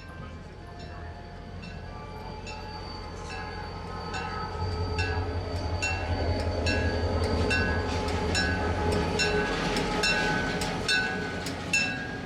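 A train rumbling past, growing louder to a peak about midway and then easing off, with rhythmic music of short plucked-sounding notes repeating about twice a second over it.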